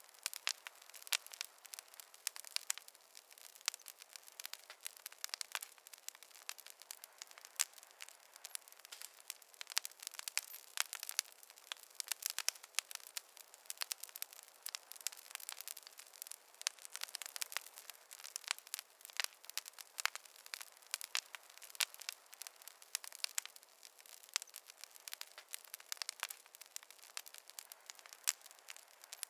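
Wood campfire crackling, with dense, irregular sharp pops and snaps over a faint hiss.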